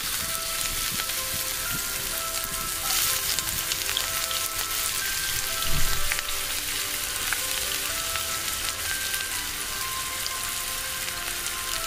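Chopped shallots frying in hot oil in a pan, a steady sizzling hiss, with one dull thump about halfway through. Faint background music with held notes plays underneath.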